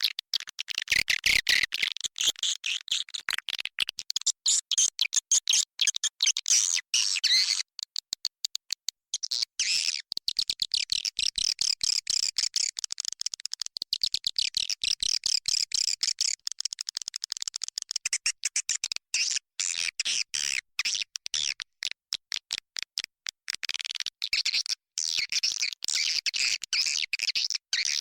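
Recorded call of edible-nest swiftlets: a dense, fast, high-pitched twittering and chattering with short breaks. This is the call and roost sound played to lure swiftlets into a nesting house.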